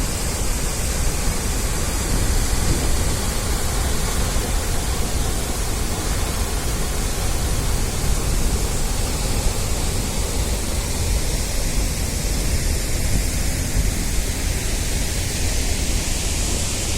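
Athirappilly waterfall: a steady roar of falling water crashing at its base, heard from close below, with heavy low rumble.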